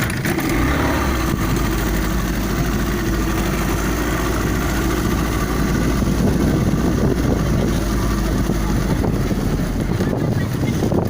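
Motorboat engine idling steadily, a low hum that sets in about half a second in and fades near the end, under a broad hiss of wind and water.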